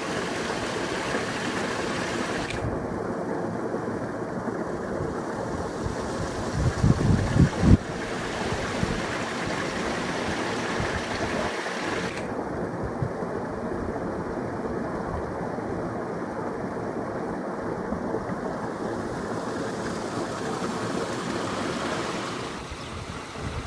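Water from a spring running steadily, a continuous rushing hiss. A few low thumps about seven seconds in.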